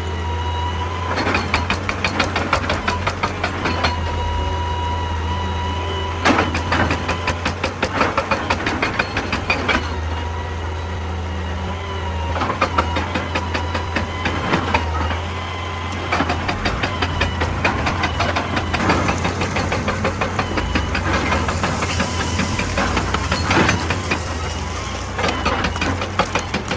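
Excavator's diesel engine running steadily with a high hydraulic whine, under repeated stretches of rapid knocking and clatter that come and go every few seconds as it works rock.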